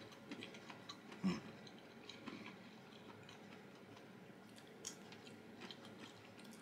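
A person chewing food with the mouth close to the microphone: faint wet chewing with small crunches and clicks, and one louder knock just over a second in.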